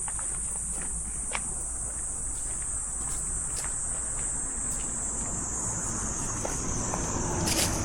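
Summer insects droning steadily in one high-pitched note, with a few faint clicks over it and a short louder rustle near the end.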